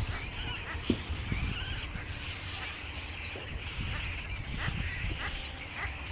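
Many birds chirping and calling over one another, with a steady low rumble and scattered low thumps underneath.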